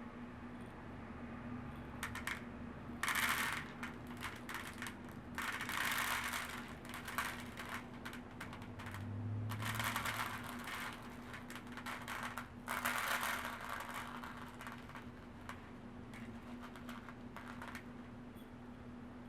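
Loose bird seed poured and scattered over a pinecone onto a disposable plate, giving four bursts of rustling and light rattling about three, six, ten and thirteen seconds in. A steady low hum runs underneath.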